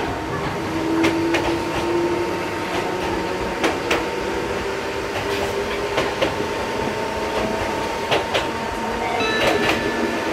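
Enoden 500-series electric train running, heard from the cab: a steady running noise with a thin steady whine, broken by sharp clicks at irregular intervals as the wheels pass over rail joints. A few short tones sound near the end.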